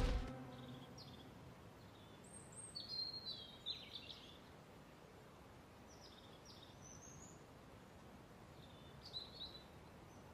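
Faint birdsong: a few groups of short, high chirps, about two to four seconds in, around seven seconds and again about nine seconds in, over a quiet background hiss. The tail of a music cue dies away in the first moment.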